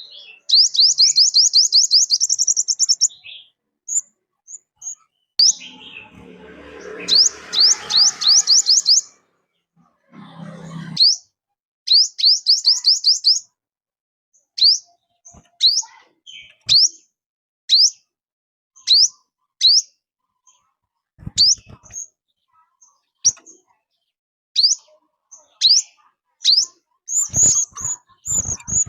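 Songbird calls of the 'five-colour bird' used as a trapping lure: high, quick downward-slurred whistled notes. They come first in fast runs and later as single notes about one a second. A stretch of low rustling noise comes a few seconds in, and a few soft knocks near the end.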